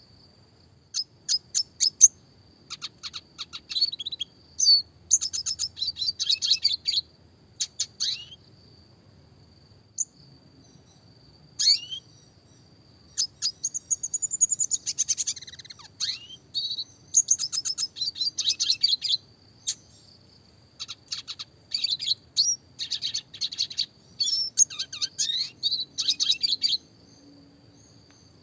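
Red siskin (Spinus cucullatus) singing: phrases of rapid twittering trills, separated by short pauses, with a few sliding notes that rise or fall in pitch.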